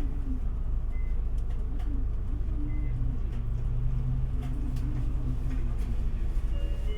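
Isuzu Erga city bus (QPG-LV234L3) heard from inside the cabin while under way: the diesel engine's low drone, its note growing stronger for a couple of seconds in the middle as it pulls. Light rattles and clicks come through the body.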